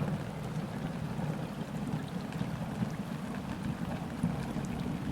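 Gentle rain falling on a river's surface, with faint scattered drop ticks over a steady low rumble.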